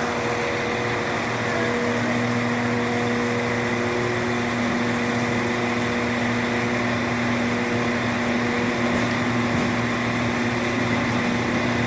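A train standing at the station with its engine or onboard equipment running: a steady hum holding a low tone that does not change in pitch or level.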